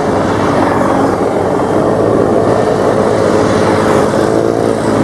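Propeller aircraft, a Beech G36 Bonanza with its six-cylinder piston engine, droning steadily in flight.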